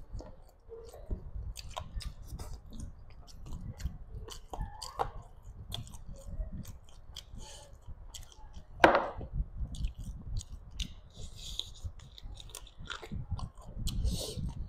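Close-miked chewing and wet mouth clicks of a person eating rice and chicken curry by hand, with one much louder mouth sound about nine seconds in.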